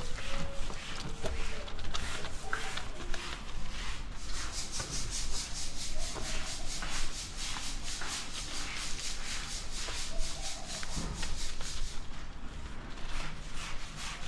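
Scrubbing a motorcycle during a wash: short, even rubbing strokes at about three a second, starting about four seconds in and stopping near the end. Light knocks and scrapes come before them.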